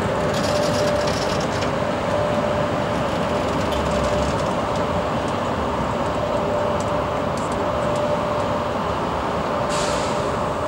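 Passenger train coaches rolling slowly past on the rails: a steady rumble of wheels with a steady whine, and a brief hiss near the end.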